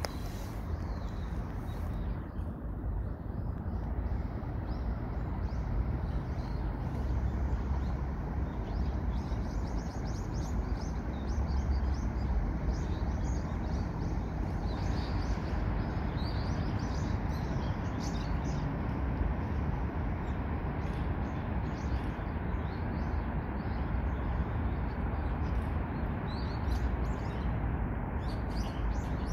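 Small birds chirping here and there in the background, over a steady outdoor hum with a low rumble.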